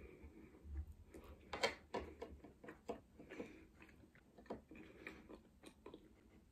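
A person chewing a mouthful of sausage close to the microphone: faint, irregular wet mouth clicks and smacks, the sharpest about a second and a half in.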